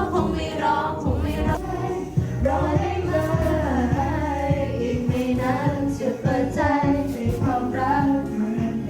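Singing over a karaoke backing track with a steady bass line and drum beat.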